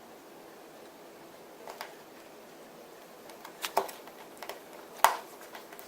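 A few small sharp clicks and taps from phone parts and a tool being handled on a workbench: one faint, two close together, then the loudest about five seconds in.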